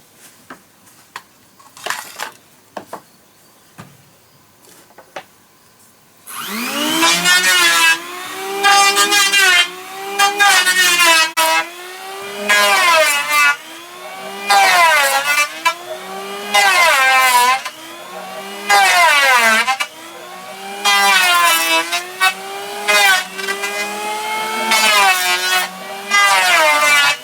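A handheld power planer cutting wood in repeated passes. Its motor whine sags in pitch as each pass bites and recovers between passes, about every second and a half. It is preceded by a few scattered knocks.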